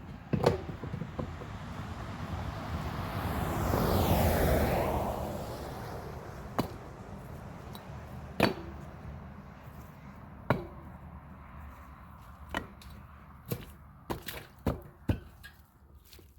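Sharp knocks of bricks being set and seated into place while packing a driveway repair, coming irregularly every second or two and clustering near the end. A noisy whoosh swells and fades about four seconds in.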